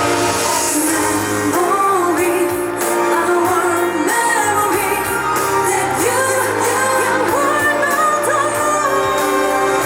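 A woman singing a pop song live over a backing track, amplified through a stage sound system.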